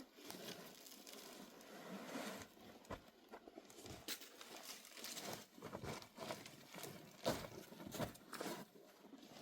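Irregular crunching and rustling with scattered sharp knocks, the loudest knock about seven seconds in.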